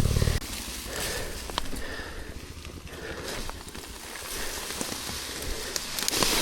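Dirt bike on a trail at low revs: the loud engine note falls away just after the start, leaving crackling tyre and trail noise with a few sharp knocks.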